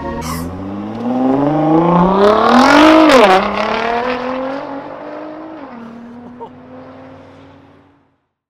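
Car engine accelerating hard, its pitch climbing for about three seconds before dropping sharply, as at an upshift or lift-off. It then runs on at a lower pitch, dropping once more, and fades away until the sound cuts off about eight seconds in.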